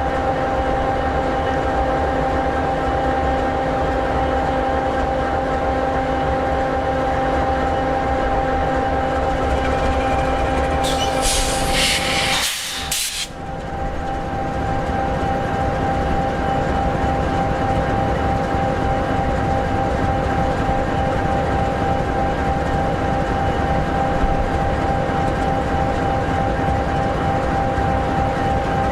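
EMD 16-710G3B V16 two-stroke turbocharged diesel in an SD60E locomotive idling steadily, with constant tones over the engine's run. About halfway through there is a brief hiss of roughly two seconds.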